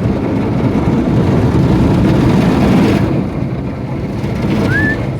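Automatic car wash's large rotating brushes and water spray scrubbing over the car, heard from inside the cabin as a loud, steady rush of noise, easing off slightly after about three seconds.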